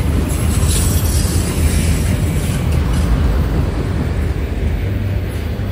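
Loaded autorack freight cars rolling past close by: a steady rumble of steel wheels on the rails.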